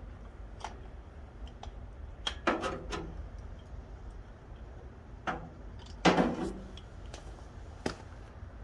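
Scattered metal clicks and knocks from hand tools and spark plugs being handled, including a quick cluster of three and one louder knock, as spark plugs are taken out of a tractor engine. A low steady rumble runs underneath.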